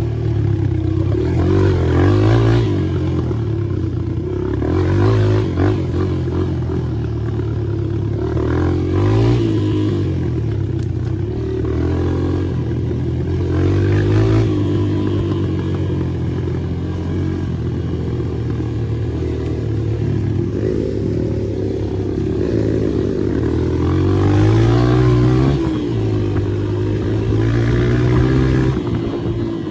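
Dirt bike engine running hard under throttle, its pitch repeatedly rising and dropping as it revs up and shifts, with some clattering from the bike.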